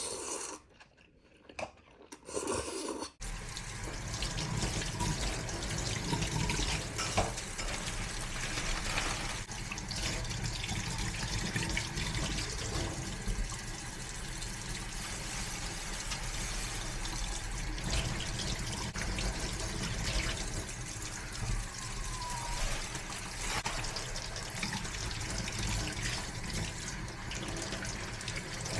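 Steady running water, starting about three seconds in after a few brief sounds.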